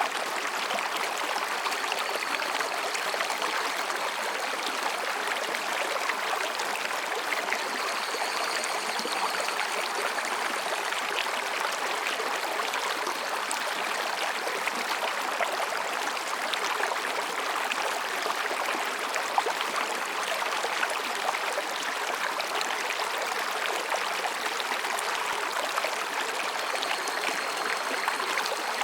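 Mountain stream rushing and babbling over rocks, a steady even flow. Faint, high-pitched calls of higurashi cicadas come in now and then, each lasting a couple of seconds.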